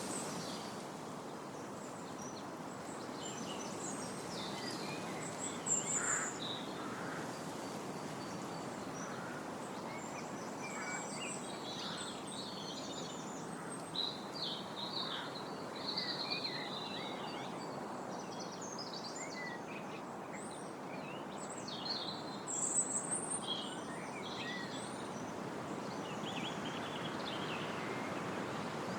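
Wind rustling steadily through trees. Over it, several small songbirds chirp and trill in scattered short phrases, busiest about a quarter of the way in and again near the middle and two-thirds through.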